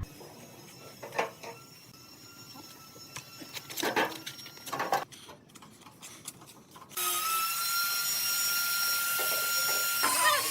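Woodworking shop sounds: a few scattered knocks and scrapes of handling, then an electric power tool starts about seven seconds in and runs steadily with a high whine.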